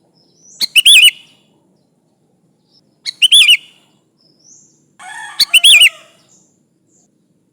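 Sooty-headed bulbul (kutilang) singing: a short, bubbly whistled phrase given three times, roughly every two and a half seconds.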